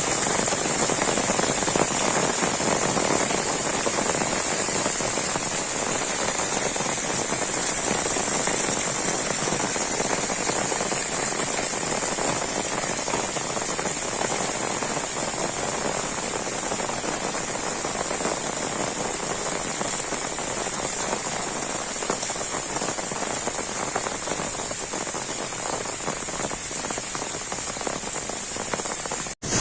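Heavy rain falling steadily, a dense even hiss of drops striking surfaces. It breaks off for an instant near the end.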